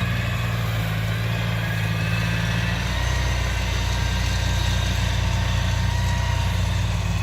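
Kubota DC60 combine harvester's diesel engine running steadily with a low drone, the note shifting slightly about three seconds in.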